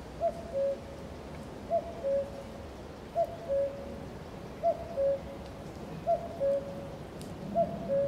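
A bird hooting in two-note calls, a short higher note then a longer lower one, six times at about one call every second and a half, over a steady hiss of rain.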